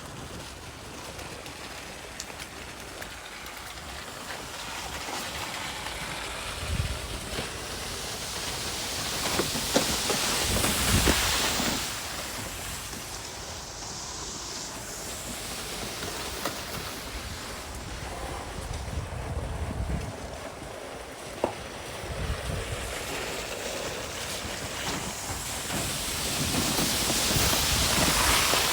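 Wind gusting and buffeting the microphone, with a steady rush that swells twice, about a third of the way in and again near the end, and low rumbling thumps in the gusts.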